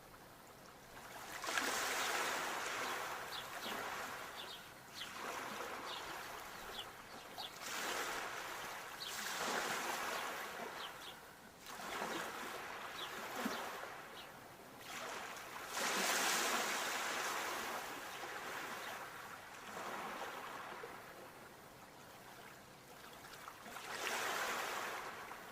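Sea waves breaking and washing in, coming as swells every few seconds with quieter gaps between, the loudest about two-thirds of the way through.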